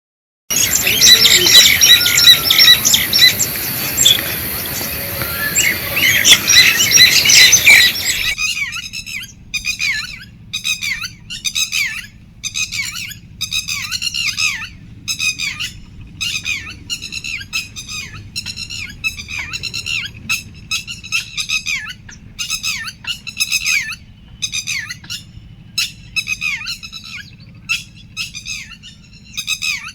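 Birds: a dense chorus of many birds chirping, then, after an abrupt change about eight seconds in, repeated harsh squawking calls, one or two a second, over a low steady rumble.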